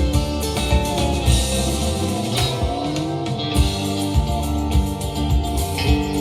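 Instrumental break of a rock-pop song: guitar playing over bass and a drum kit in a steady beat, with a sliding note about two and a half seconds in.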